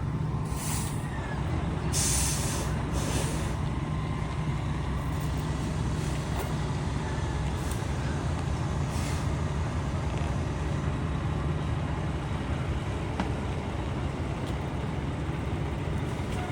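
Fire truck's diesel engine running with a steady low rumble, with three short hisses of air from the air brakes in the first few seconds.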